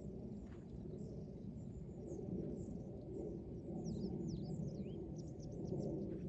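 Outdoor ambience: a steady low rumble with faint bird chirps, a run of quick downward-sweeping chirps about three to five seconds in.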